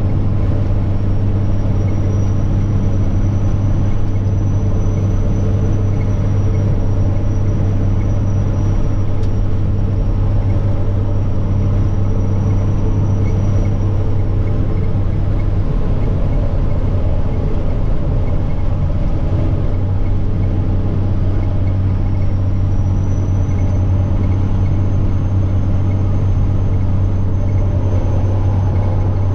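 Semi truck's diesel engine running steadily under way, with a thin, high turbocharger whine over the deep engine drone. The whine fades out about halfway through, and the drone goes rough for a few seconds. Then the whine rises again and holds near the end.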